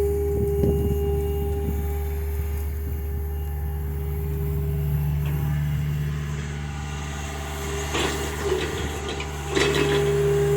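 John Deere excavator's diesel engine running steadily, with a steady tone above the engine note and two short noisy bursts near the end.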